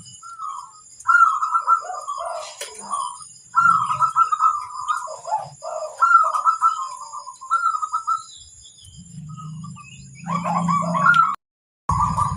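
Zebra dove (perkutut) cooing in repeated rolling phrases, about four bursts with short pauses between them. A low hum runs under the last phrase, and the sound breaks off briefly near the end.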